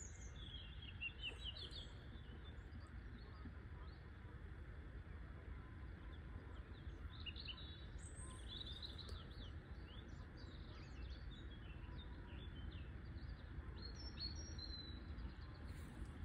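Songbirds singing in short bursts of chirps near the start, around the middle and near the end, over a steady low background rumble.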